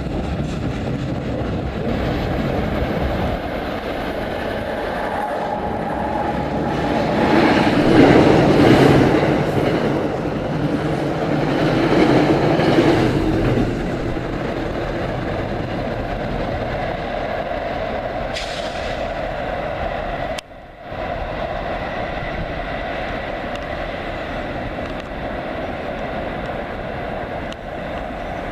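A train running on rails: a steady rumble and wheel noise that swells twice, about 8 and 12 seconds in, and drops out for an instant about 20 seconds in.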